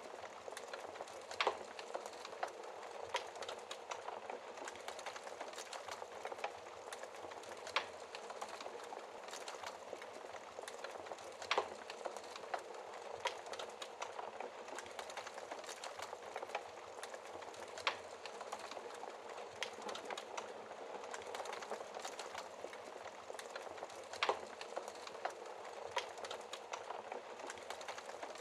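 Burning logs crackling in a fireplace, with sharp pops every few seconds over a steady hiss of rain.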